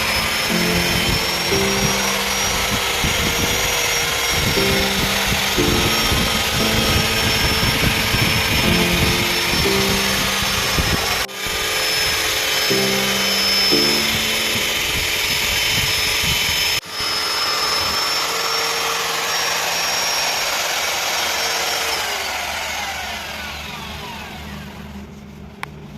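Power tool spinning a 120-grit abrasive nylon brush wheel, a steady high whine over a loud rushing noise, with background music over it. Two brief cuts in the middle, and the sound fades away near the end.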